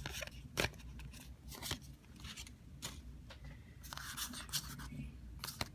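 Trading cards and a foil booster-pack wrapper being handled: faint rustling, crinkling and card-on-card scrapes, with a few short sharp clicks.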